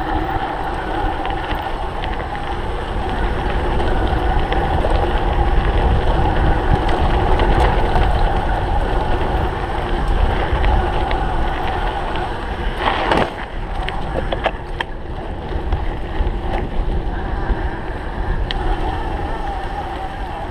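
Cyclocross bike being raced: wind buffeting the camera microphone over the steady drone of knobby tyres and drivetrain. There is a sharp knock about thirteen seconds in, followed by a few lighter clicks.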